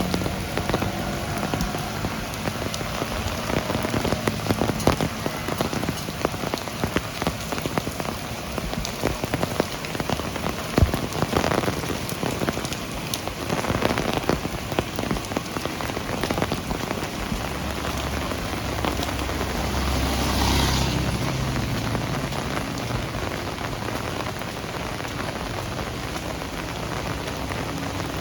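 Heavy rain falling steadily, with many sharp drop hits close by. A few louder swells of hiss come and go about halfway through and again about three-quarters of the way in.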